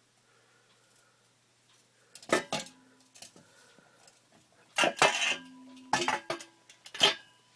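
Stainless-steel exhaust parts clanking as they are handled: four clusters of sharp metal knocks, some leaving a short ringing tone.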